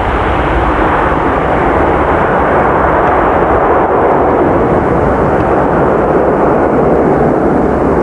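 Airbus A320neo-family airliner with Pratt & Whitney PW1100G geared turbofans at takeoff thrust, a loud, deep, booming rumble as it passes almost overhead. The higher part of the noise fades slowly while the low rumble stays steady.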